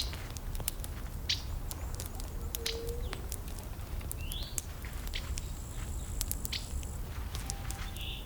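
Burning wood in a campfire crackling, with irregular sharp pops and snaps over a low steady rumble. A few short bird chirps sound in the background, one rising about four seconds in.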